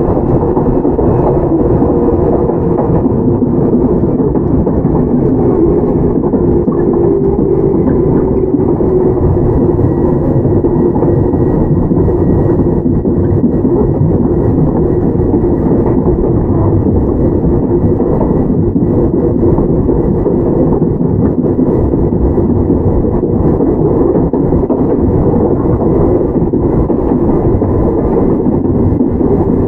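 Running noise of a Toyama Chiho Railway 17480-series electric train, a former Tokyu 8090 series with field-chopper control: a continuous, steady rumble of wheels on rail and traction gear, with a faint high tone held throughout.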